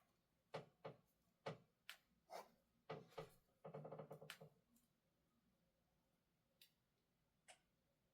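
Quiet desk sounds from objects being handled: a series of light taps and clicks, a short rattle about three and a half seconds in, then two faint ticks near the end.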